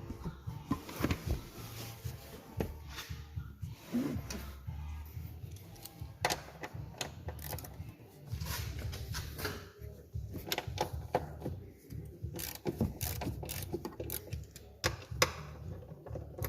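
Irregular mechanical clicks and knocks, like hand-tool work on metal parts, over a low steady hum.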